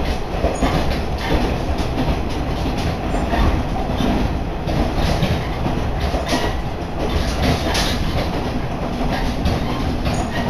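Running noise inside an Aizu Railway diesel railcar moving at speed: a steady low rumble with the wheels clicking over rail joints.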